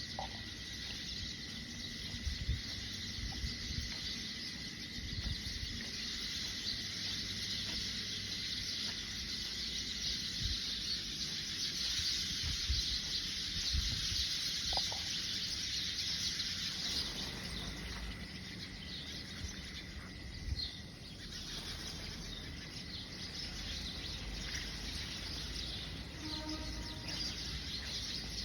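A dense chorus of many birds chirping at once, blending into a continuous high twittering, with a steady thin high tone running under it.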